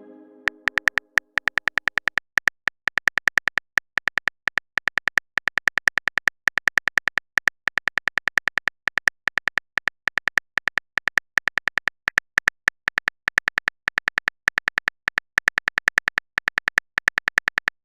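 Simulated phone-keyboard typing sound effect from a texting-story app: runs of rapid key-tap clicks with short pauses between words. A fading chime tail is heard in the first second.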